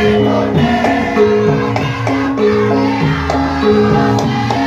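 Javanese gamelan playing: bronze metallophones ringing held notes in a steady pattern, with drum strokes keeping the beat.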